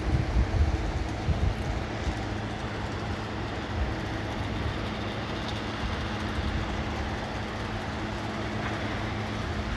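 Strong storm wind rushing steadily and buffeting the microphone with a low rumble, a faint steady hum underneath.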